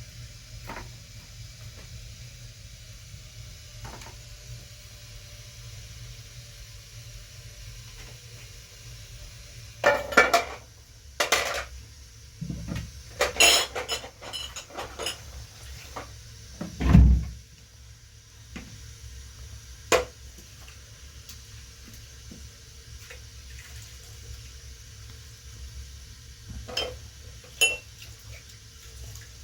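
Scattered clinks and knocks of handled objects, like dishes or utensils, with a burst of clattering in the middle that ends in one heavy thump. A steady low hum runs underneath.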